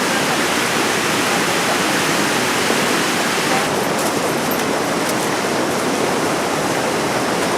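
Fast-flowing mountain river rushing, a loud, steady noise of water.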